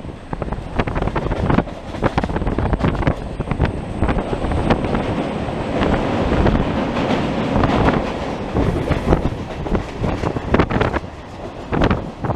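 Mumbai suburban EMU local train running at speed, heard from on board, with the rumble of wheels on the rails and wind buffeting the microphone in uneven gusts.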